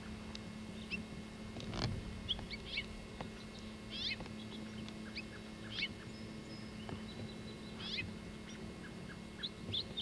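Small birds chirping, with many short high notes and a few quick trills, over a steady low hum.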